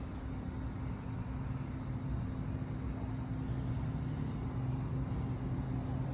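Vehicle engine idling: a steady low hum that gets slightly louder about halfway through.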